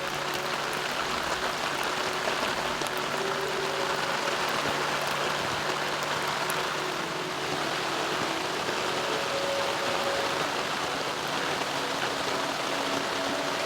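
Steady rain falling in a forest, an even hiss of drops with no let-up.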